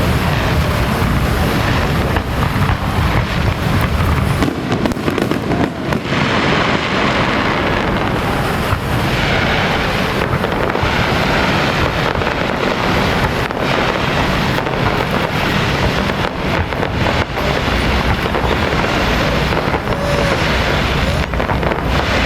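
Firecrackers going off in a dense, unbroken crackle, with a low rumble underneath for the first four seconds or so.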